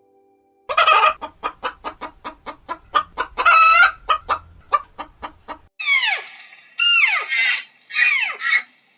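A hen clucking rapidly, with one longer drawn-out call partway through the run, as in a cackle. About six seconds in it gives way to a different series of calls, each sliding steeply down in pitch, about one a second.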